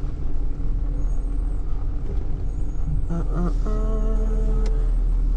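Tow truck's engine running with a steady low rumble as it drives. About four seconds in, a steady pitched tone sounds for about a second.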